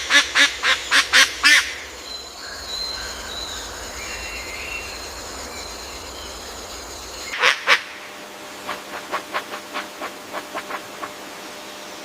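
Birds calling: a rapid run of loud, harsh calls at the start, faint warbling after, two more loud calls about seven and a half seconds in, then a quicker series of fainter notes.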